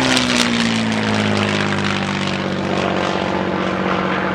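P-51 Mustang's Merlin V-12 engine flying past, its tone falling in pitch over the first couple of seconds and then holding a steady drone.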